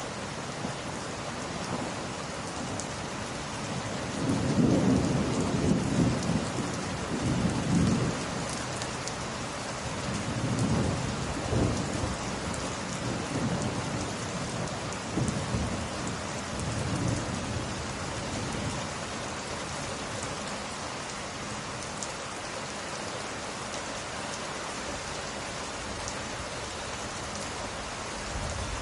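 Steady rain falling on glass, an even hiss, with a roll of thunder rumbling low from about four seconds in, loudest early on and dying away well before the end.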